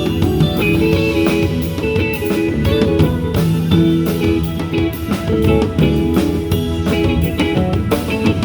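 Live rock band playing an instrumental passage: guitars over a drum kit with a steady beat.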